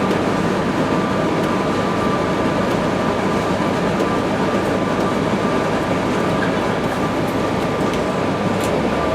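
Steady running noise heard from inside a moving city bus: an even roar with a faint pair of steady high tones.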